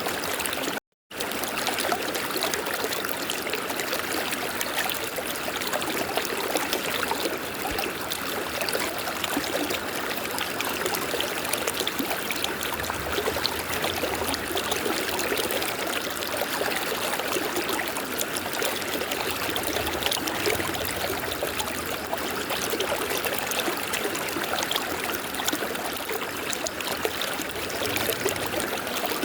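River water flowing in a steady, even rush, broken once by a brief gap of silence about a second in.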